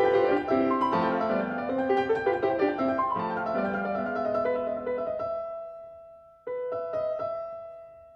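Solo piano music: a run of notes, then a few held notes that fade away. The music cuts back in abruptly about six and a half seconds in and fades again near the end.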